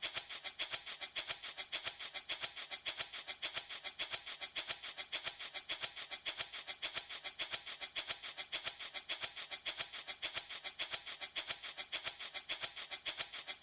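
Handmade rattle shaken steadily, its beads or seeds rattling in a quick, even rhythm of about five shakes a second, bright and hissy.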